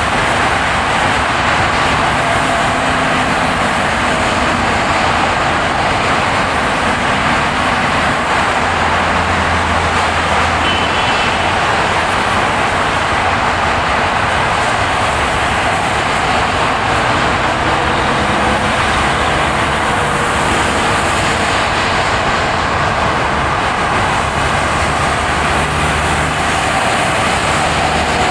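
A car driving on a snowy, ploughed road: a steady hiss of tyre and road noise with a low engine hum underneath, unchanging throughout.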